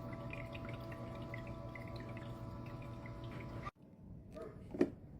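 Countertop nugget ice maker running: a steady motor hum holding a few even tones, with water dripping and trickling inside. The machine sound cuts off abruptly about three and a half seconds in, followed by a couple of faint knocks.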